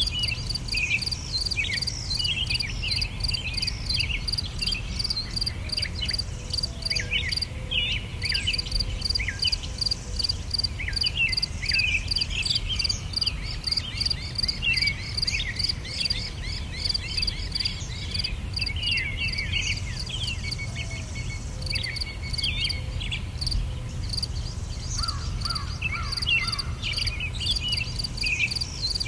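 Ambient nature soundscape: many small birds chirping and twittering in short falling notes over a steady, evenly pulsing insect chirp, with a low rumble underneath. The birdsong thins out for a couple of seconds near the end before picking up again.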